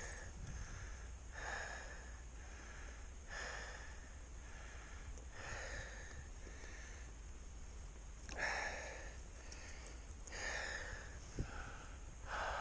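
A person's heavy breathing, deep breaths roughly every two seconds, as he catches his breath after being swept down in an avalanche. A single sharp click comes near the end.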